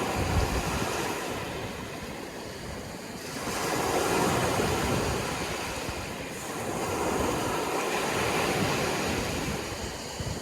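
Sea waves breaking and washing on a shore, the surf swelling and ebbing about three times, with some wind on the microphone. The sound cuts off suddenly at the very end.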